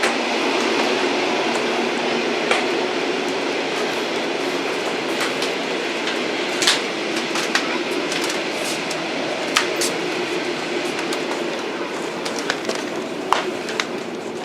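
Old train running on the rails: a steady noise of wheels and carriage, broken by scattered sharp clicks and knocks at irregular intervals.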